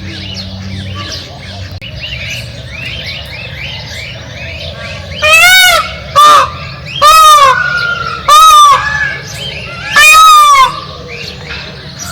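Five loud, drawn-out honking calls from a large bird, each rising and falling in pitch. They come over a steady background of many small birds chirping.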